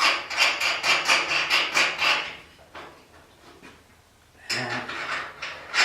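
A quick run of clicks and knocks for about two seconds, a near-quiet pause, then a short burst of rattling near the end.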